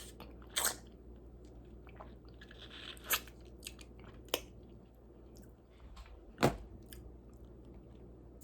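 A person chewing a crunchy snack close to the microphone, with scattered crunches and mouth clicks; the loudest crunch comes about six and a half seconds in.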